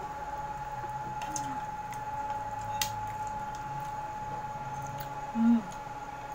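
Wet chewing and eating sounds of instant fried noodles eaten with chopsticks, with a few light clicks and a steady thin tone underneath. A short low hum comes about five seconds in.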